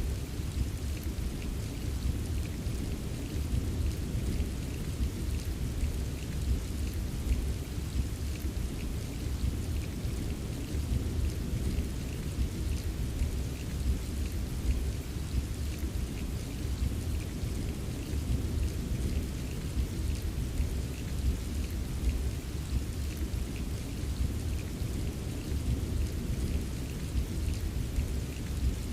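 Steady rain with a continuous low rumble of distant thunder underneath and faint scattered raindrop ticks; no single loud thunderclap.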